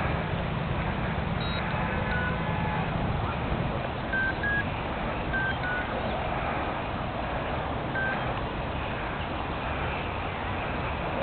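Heavy wind buffeting the microphone: a steady low rumble and rush.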